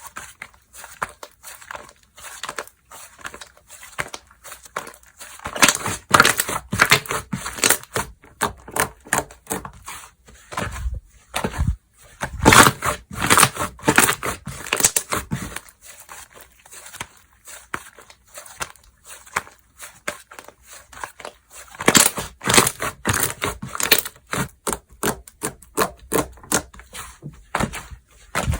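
Hands squeezing, stretching and folding slime: dense runs of crackling, popping clicks, in several louder bursts.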